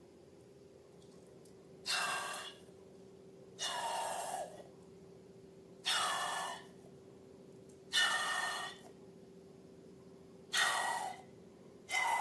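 Short rushes of air squealing out of a stretched balloon neck, repeated about every two seconds, six times, each lasting under a second.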